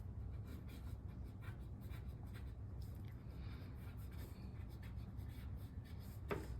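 Pen scratching on paper in short, irregular strokes: someone writing a letter by hand, over a low steady hum.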